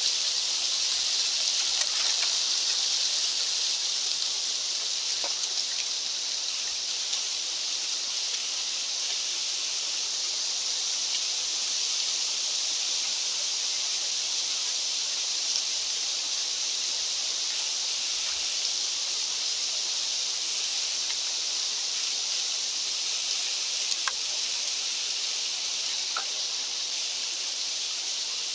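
Steady, even rushing hiss with a few faint ticks, a nature ambience of the sort given by wind or flowing water.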